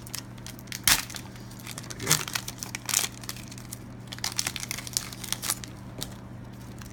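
Foil Pokémon booster pack wrapper being torn open and crumpled by hand: irregular crinkling and crackling, the sharpest just before a second in and again around two and three seconds in.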